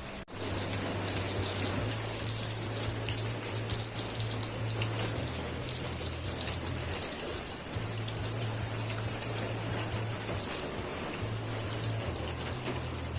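Heavy rain falling steadily, with many separate drop hits, over a low steady hum.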